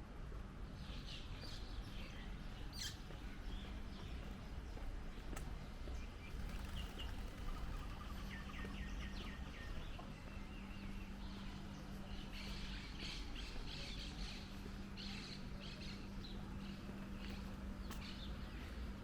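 Small birds chirping and twittering, with a quick run of repeated notes about eight seconds in, over a steady low street rumble and a low hum that grows stronger partway through.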